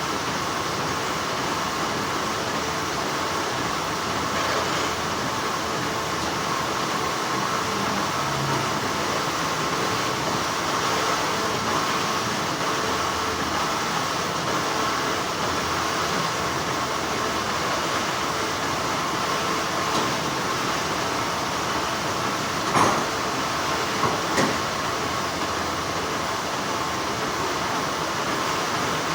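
Steady, continuous hum of textile factory machinery, an even noisy drone with a stronger band in the upper midrange. A few short sharp clicks come near the end.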